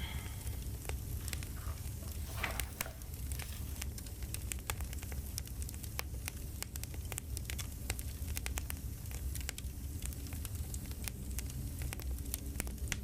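Campfire crackling: a steady low rumble of burning wood with frequent, irregular sharp pops and snaps.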